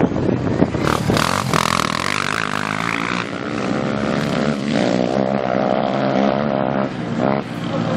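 Small off-road race engines running and revving, rising and falling in pitch.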